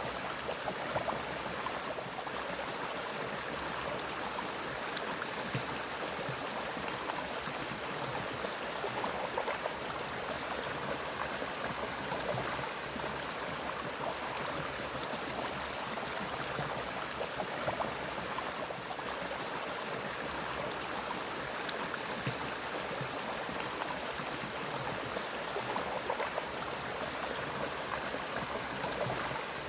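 Mountain stream flowing in a steady rushing babble, with a constant high-pitched whine held alongside it.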